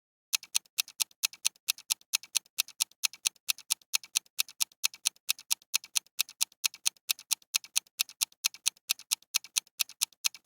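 Clock ticking sound effect counting down, a steady tick-tock of about four sharp ticks a second.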